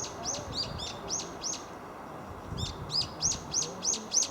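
A small bird chirping: a quick run of high, arched chirps, about three a second, that stops for about a second about halfway through and then starts again.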